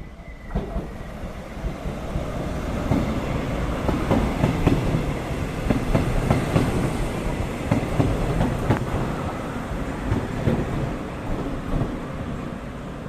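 Train passing, its wheels clacking over the rail joints; the noise builds about half a second in, is loudest through the middle and eases near the end.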